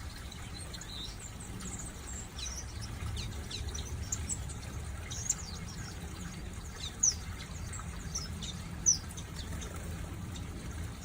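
A flock of small aviary finches and waxbills chirping: many short, high calls overlapping at random, with two sharper, louder chirps in the second half. A steady low rumble runs underneath.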